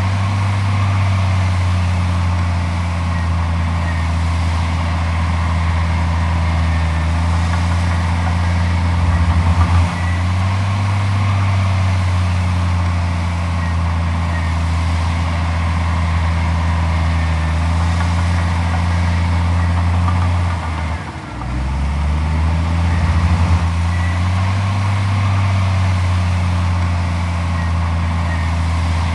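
Heavy diesel engine running steadily at a constant speed, with its revs dipping briefly about twenty seconds in and then recovering.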